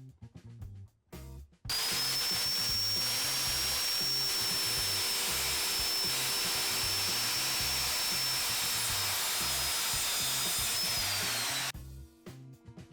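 Circular saw spinning up with a high whine and cutting through OSB sheet for about ten seconds, the whine dropping as it winds down near the end. Background music plays before and after the cut.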